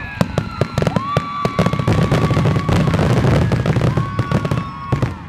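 Fireworks going off: dense rapid crackling with two whistling shells that rise in pitch and then hold, over a low rumble.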